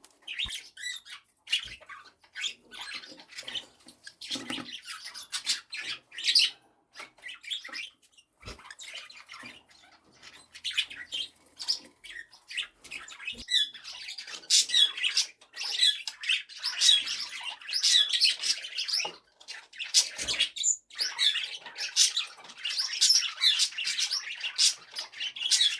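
Cockatiels chirping and squawking in short, repeated calls, sparse at first and then near-continuous through the second half. A few soft knocks come in between.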